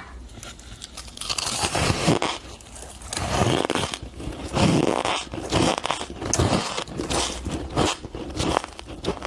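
Shaved ice being bitten and chewed close to the microphone: a dense, irregular crunching with louder crunches every half second or so.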